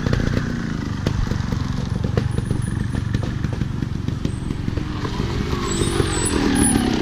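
Vehicle engine running steadily with a fast, even pulse, picking up slightly near the end.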